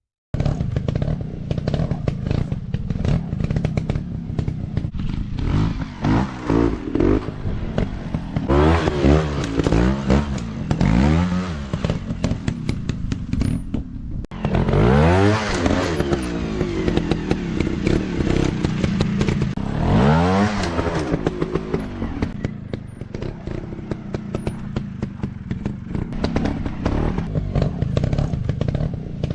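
Dirt-bike engines revving up and down in repeated surges, the pitch climbing and falling several times, with clatter and scraping from the ride over rough ground.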